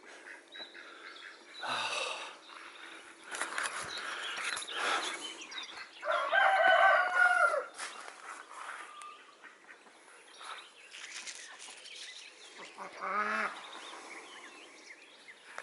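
A rooster crowing: one long call about six seconds in that holds, then drops away at the end, with a shorter call near the end. Fainter bird calls come and go around it.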